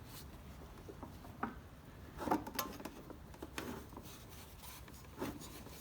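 Faint fumbling and handling noises: a few scattered light clicks and rubs as fingers work a tachometer cable's plastic nut, trying to start its thread on the back of the tractor's instrument cluster.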